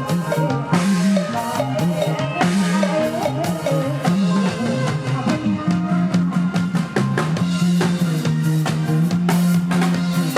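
Live band music in the Isan style, with a drum kit keeping a steady beat over a sustained bass line.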